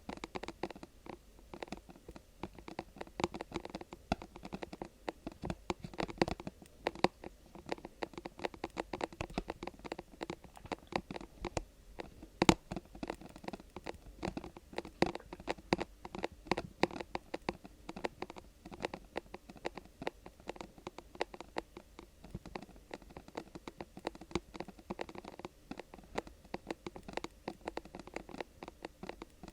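Close-miked fingers scratching and tapping on objects for ASMR: a steady, dense run of small clicks and scratchy rustles, with one sharp click about twelve seconds in.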